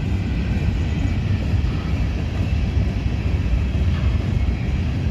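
Freight cars of a passing manifest train rolling by, a steady low rumble of steel wheels on the rails, with a couple of faint clicks near the end.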